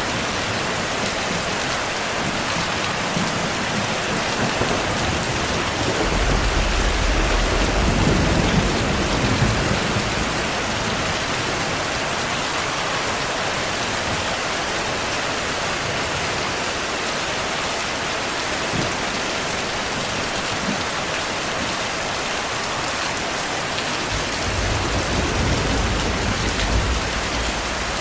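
Steady heavy rain with thunder rumbling low twice, about a quarter of the way in and again near the end.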